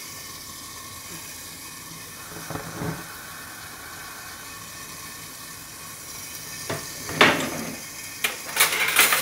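Chicken breast frying in a lidded pan, a steady sizzle. Near the end, several sharp clatters of kitchenware.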